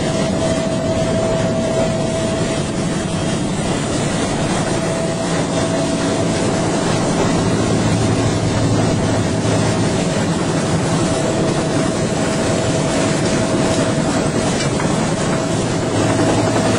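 UH-1H Huey helicopter running steadily, a dense engine and rotor noise with a constant whine.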